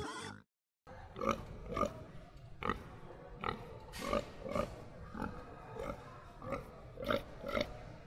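Domestic piglets grunting: short, soft grunts about one or two a second, after a brief silence near the start.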